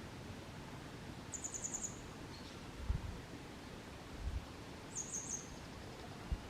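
Grey wagtail singing: two short phrases of rapid, high, sharp notes, about a second and a half in and again about five seconds in. A few brief low thumps are heard between the phrases.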